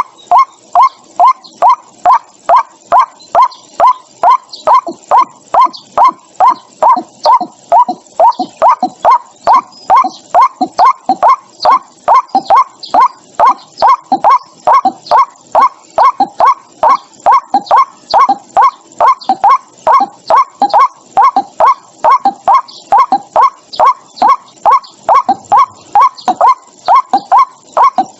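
White-breasted waterhen calling: one short, loud note repeated over and over at an even pace of about two to three a second, without a break.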